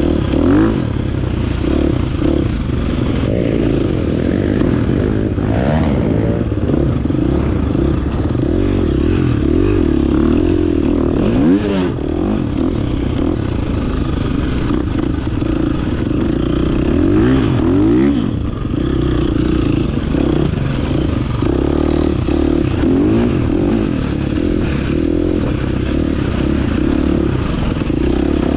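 Dirt bike engine running while riding, its revs rising and falling over and over, with scattered clattering knocks.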